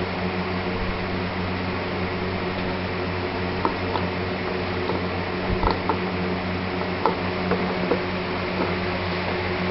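Steady machine hum, like a fan, with a few small clicks scattered through the middle.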